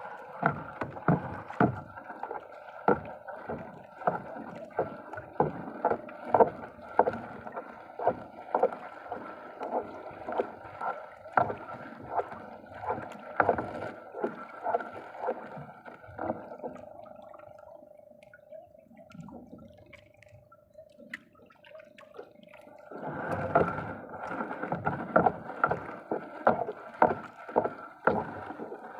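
Rapid knocks and thuds on a small wooden fishing boat, about two a second, over a steady hum; they stop for several seconds past the middle, leaving only the hum, then start again near the end.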